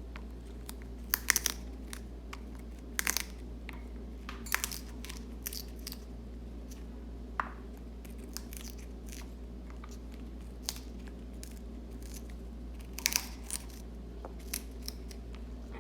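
African grey parrot biting and tearing a crisp red cabbage leaf with its beak: irregular sharp crunches, some in quick clusters, over a low steady hum.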